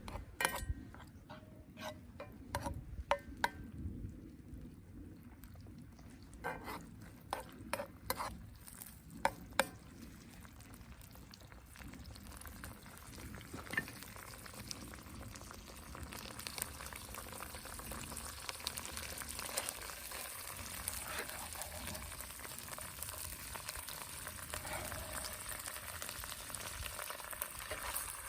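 Several sharp clicks and knocks of cooking utensils in the first ten seconds or so, then food sizzling as it fries in a hot pan, building up and holding steady to the end.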